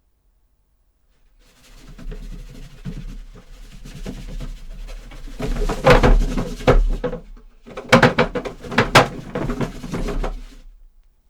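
Foley footsteps in creaky leather shoes on wooden boards: an irregular run of knocks and creaks, loudest around the middle and again toward the end.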